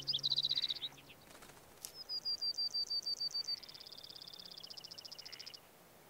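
Songbird calls: a quick run of high chirps, then a run of rapid repeated high notes, followed by a trill that steps down in pitch and stops about a second before the end. Background music fades out in the first second.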